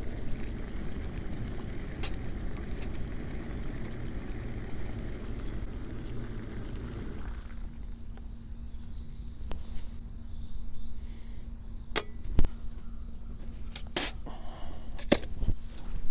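Outdoor background noise with a few short, high bird chirps. About halfway through it gives way abruptly to a quieter low hum with scattered sharp clicks and knocks.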